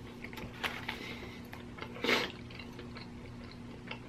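Close chewing of a chicken sandwich: soft wet mouth noises and small clicks, with one short louder smack or rustle about two seconds in. A faint steady hum sits underneath.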